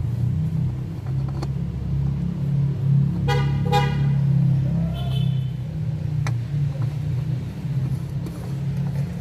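Steady low vehicle engine rumble, with two short car-horn toots in quick succession a little past three seconds in.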